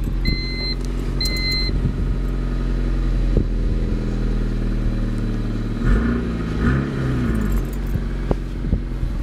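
Heard from inside the cabin, the 1996 Honda Civic's four-cylinder engine idles in Park with a steady hum, its pitch wavering briefly about six seconds in. A dashboard warning chime beeps twice in the first two seconds.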